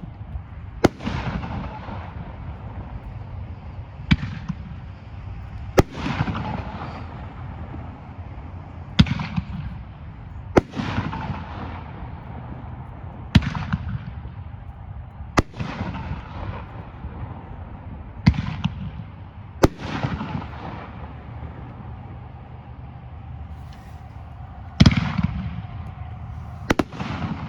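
"Jellyfish Monster" consumer fireworks cake firing its aerial shots one at a time. There are about eleven sharp bangs, one to five seconds apart, each with a fading tail.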